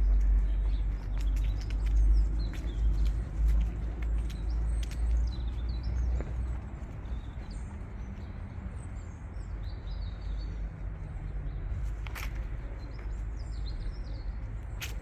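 Small birds chirping now and then over a steady low rumble, with scattered sharp clicks.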